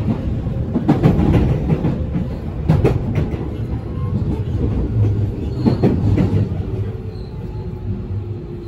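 Cabin running noise of a JR West 207 series electric commuter train: a steady rumble with sharp clacks of the wheels over rail joints about a second, three seconds and six seconds in. The noise eases off in the last few seconds as the train slows.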